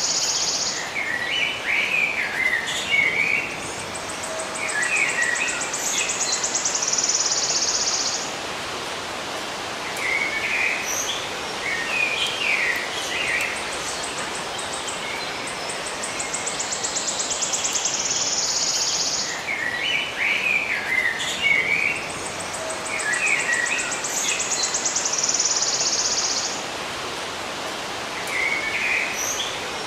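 Songbirds chirping in short clusters of notes, alternating with a high, rapidly pulsing trill lasting a few seconds, over a steady hiss of outdoor ambience. The same pattern repeats about every nine seconds, as in a looped nature recording.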